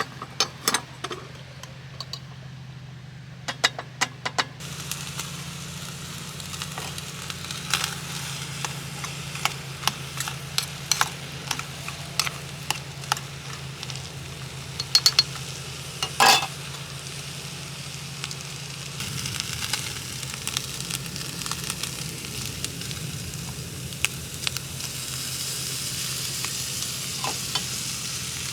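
Butter corn frying in a pan: a sizzle that starts about five seconds in and grows louder past the middle, with scattered clicks and knocks of a utensil against the pan. A steady low hum runs underneath.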